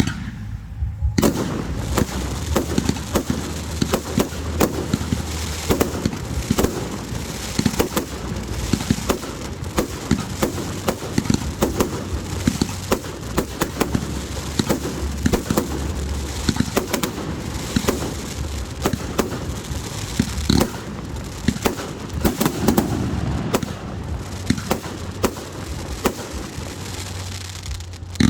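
Fireworks display: a dense, continuous barrage of rapid bangs and crackling that starts about a second in.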